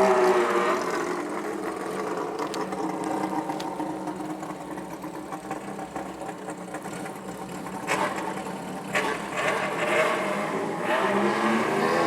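Bōsōzoku gang motorcycles revving their engines, the pitch swinging up and down in repeated blips, with a short sharp bang about eight seconds in.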